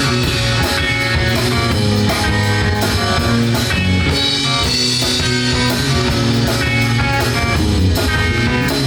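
Live rock band playing an instrumental passage: guitars, bass and drum kit, with no singing.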